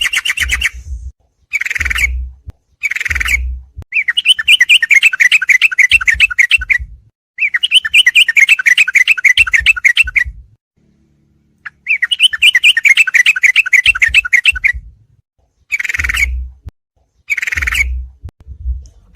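Recorded song of the trucuk (yellow-vented bulbul): fast chattering trills in separate phrases. Short bursts come near the start and end, with three long phrases of about three seconds in the middle, each with a low rumble underneath.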